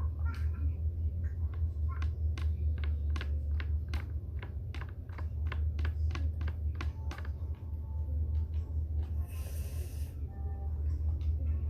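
A quick run of sharp clicks or taps, about two or three a second, for the first seven seconds or so, over a steady low hum. A short hiss comes about nine and a half seconds in.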